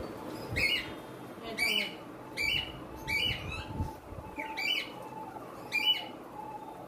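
A bird calling over and over, about six short calls roughly one a second.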